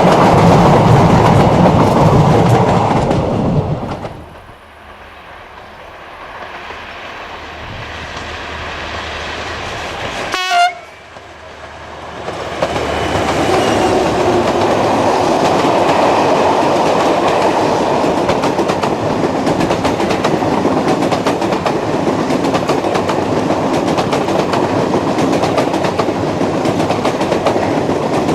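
Train running along the track with steady rolling noise, which drops away abruptly about four seconds in. About ten seconds in, a single short horn blast sounds. The rolling train noise then builds back up and holds.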